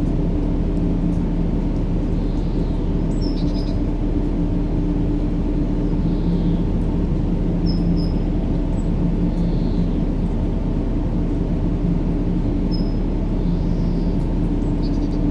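Steady, deep droning noise with a faint hum in it, played continuously as a white-noise sleep sound for a baby. Faint short bird chirps come through every few seconds.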